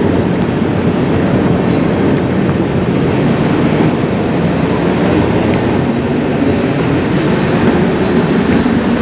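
Steady, loud rumble of a running train, with a faint high whine above it.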